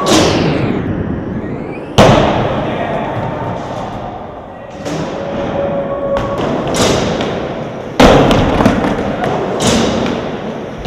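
Skateboards rolling on skatepark ramps with loud board impacts from landings and slams, three heavy hits (at the start, about 2 s in and about 8 s in) and lighter clacks between, over a steady wheel rumble.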